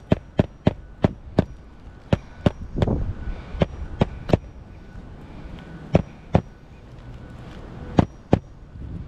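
Hand hammer driving roofing nails into a shingle: runs of sharp strikes about three a second, with short pauses between nails.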